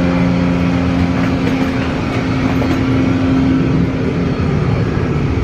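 Steady noise of a Boeing 757-300 airliner heard from inside the passenger cabin, with a low hum that fades about four seconds in.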